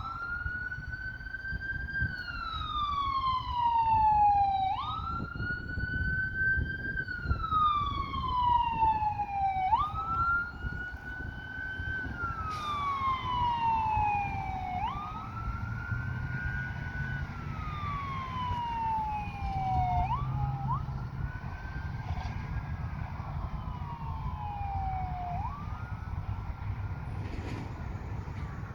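Ambulance siren on a wail cycle: each cycle jumps quickly up in pitch, then glides slowly down, repeating about every five seconds and growing slowly fainter toward the end. A low rumble runs underneath.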